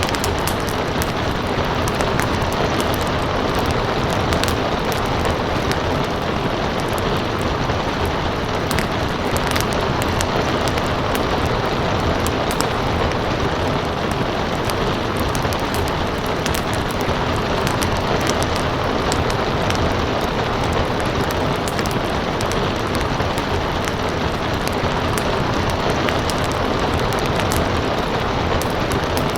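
Steady rain with a wood fire crackling through it, sharp pops scattered at irregular intervals over the hiss.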